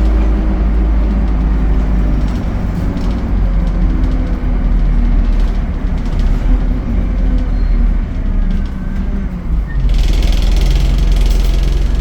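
ADL Enviro 200 bus with an Allison automatic gearbox running, a steady low engine drone whose note shifts and briefly drops, with a broad hiss starting about ten seconds in.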